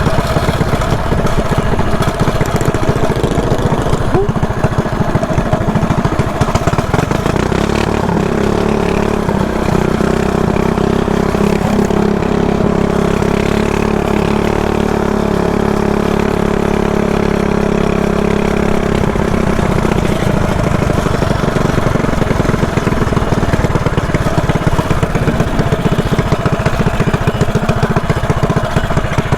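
Mini bike's single-cylinder engine running loudly under the rider, its pitch holding steady from about seven to twenty seconds in and wavering with the throttle before and after.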